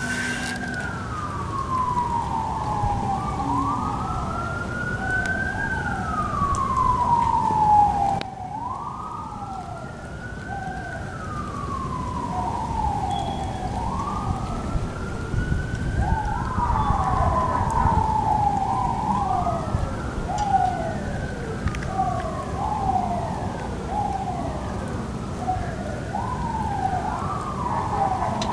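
Emergency vehicle sirens wailing, rising and falling in slow sweeps about every five seconds, with a second siren's shorter falling glides overlapping them, over a steady low rumble. The sound drops abruptly about eight seconds in, then the sirens carry on.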